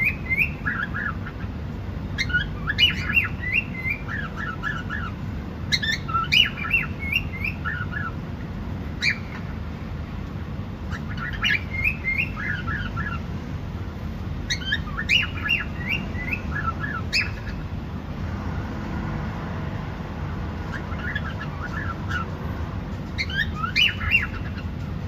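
Cockatiel chirping and whistling in clusters of quick notes that glide up and down, a new phrase every few seconds, over a steady low background noise.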